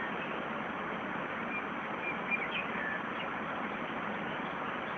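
Steady hiss of falling rain, with a small bird giving a few short chirps about two seconds in.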